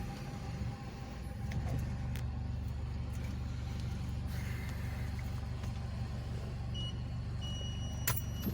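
Kia Sportage engine running steadily at low revs with its exhaust cutout open, giving a steady low rumble. A faint high beep sounds near the end, followed by a click.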